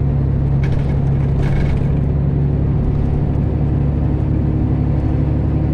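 Diesel engine of a Freightliner Classic XL semi truck running steadily at low speed. It is heard from inside the cab as a constant low drone, with two short hissy noises about a second in.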